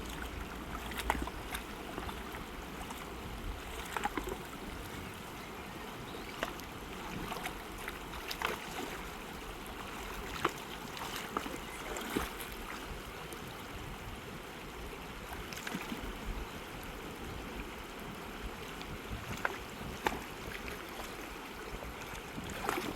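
Fast mountain river running in a steady rush of water, with short, sharp clicks and splashes every second or two.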